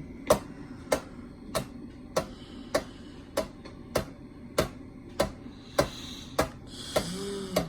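Hampton Bay Landmark ceiling fan running with a bad wobble, a sharp click repeating steadily about three times every two seconds over a low hum.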